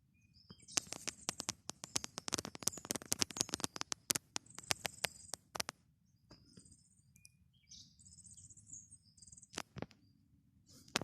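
A dense run of sharp clicks and crackles for the first half, with a couple more near the end. Small birds chirp intermittently in the background.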